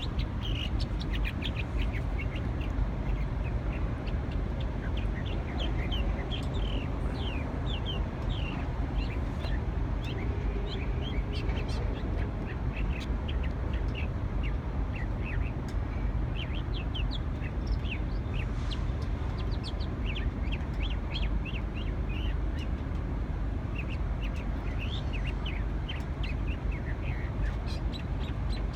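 A songbird singing in runs of quick, chirping notes with short pauses between them, over a steady low rumble.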